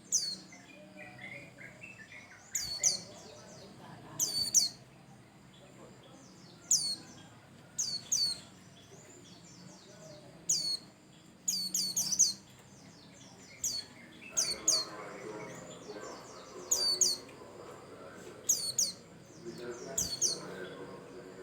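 A white-eye calling: short, high, steeply falling notes repeated every second or two, some in quick pairs.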